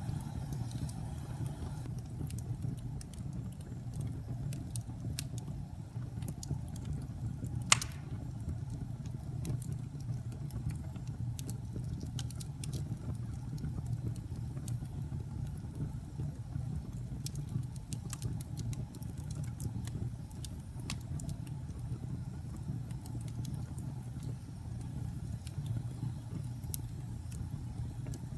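Wood fire burning in a fireplace: a steady low rumble of the flames with scattered sharp crackles, and one loud pop about eight seconds in.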